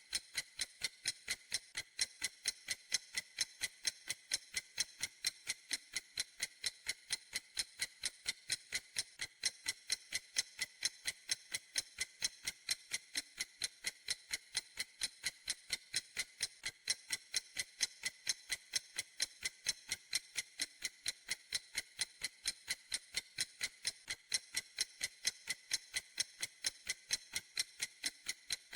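Clock ticking steadily: an unbroken run of crisp, evenly spaced, high-pitched ticks, several a second.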